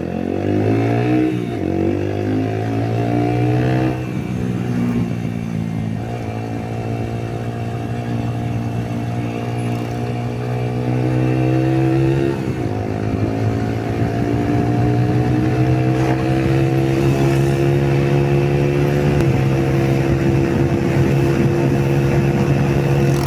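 Yamaha YBR motorcycle's single-cylinder four-stroke engine accelerating hard through the gears, its pitch climbing and dropping back at several upshifts on the way toward about 100 km/h.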